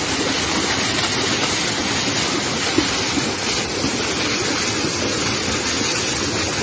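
Steady rushing hiss of crude oil gushing out of a ruptured oil pipeline, unbroken throughout.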